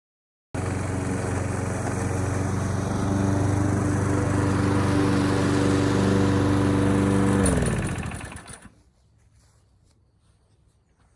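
Briggs & Stratton Quantum single-cylinder flathead engine on a Craftsman push mower running steadily, then winding down with falling pitch to a stop as it is shut off. This is the repaired mower that now runs.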